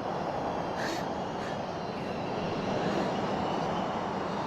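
Steady rushing roar of snowstorm wind, with faint high whistling tones.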